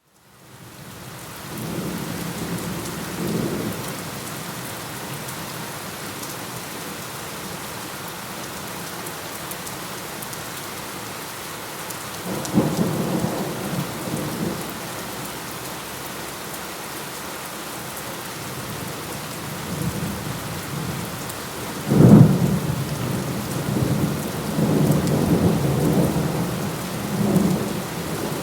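Steady heavy rain with thunder rumbling through it, fading in at the start. Thunder rolls in three times: a short rumble early, a second about halfway, and the loudest a little past two-thirds through, a sudden clap that rolls on for several seconds.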